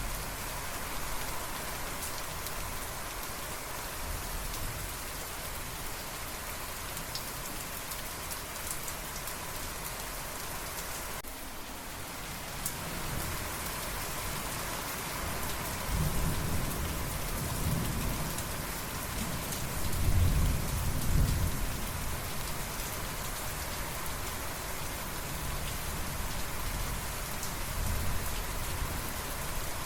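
Steady rainfall, with a low rumble of thunder rolling in about halfway through and peaking around two-thirds of the way in before fading back under the rain.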